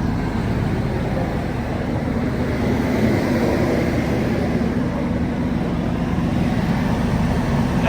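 Car engine idling steadily on its own after a cold start, a continuous even exhaust drone with no revving.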